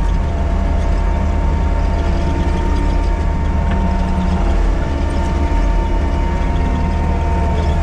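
Diesel engine of a heavy earthmoving machine running steadily, a low rumble with a thin steady whine over it.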